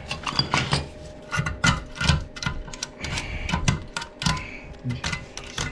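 Irregular clicks, knocks and clatter of small hard objects being picked up and knocked together while debris is cleared up.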